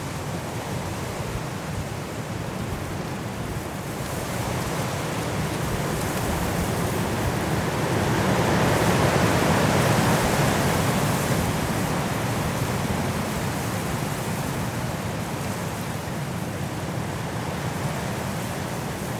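Strong wind blowing through the trees of a mountain forest in a snowstorm, a steady rushing that builds to a loud gust about halfway through and then eases.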